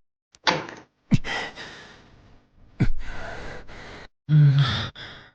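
A man's breathy sighs and exhalations, a few short ones that fade out, then a louder, voiced, moaning sigh near the end.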